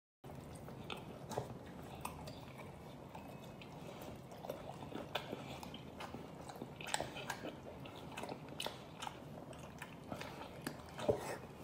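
Close-miked chewing of spicy pork skin rolls: irregular mouth clicks and smacks as a man chews, over a low steady hum.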